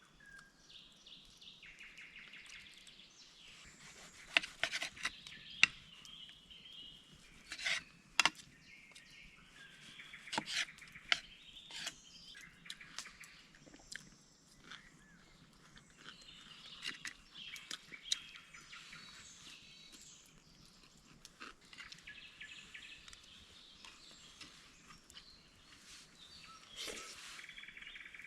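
Songbirds chirping and warbling steadily in the forest. A scatter of sharp knocks and clicks, the loudest sounds here, comes between about four and twelve seconds in, with a few more near the end.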